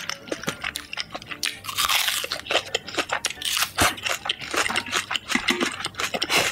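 Crunchy food chewed close to the microphone: a fast, irregular run of loud crackling crunches.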